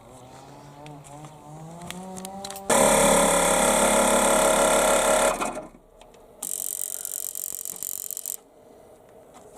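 Spark plug tester at work: a faint rising whine, then a loud mechanical run of about three seconds, then a high buzzing for about two seconds as the plug is sparked under pressure.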